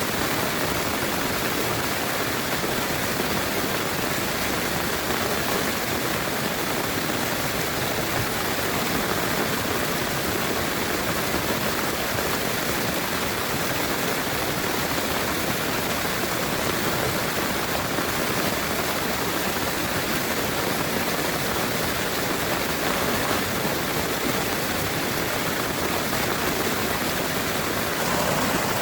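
Heavy rain pouring down steadily, a dense even hiss, growing a little louder near the end.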